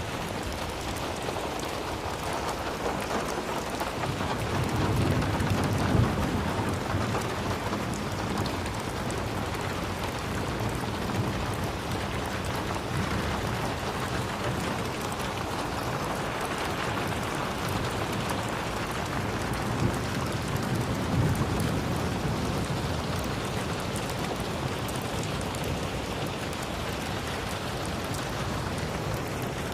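Steady, even rain falling, with two low rumbles of distant thunder swelling up about five seconds in and again about twenty seconds in.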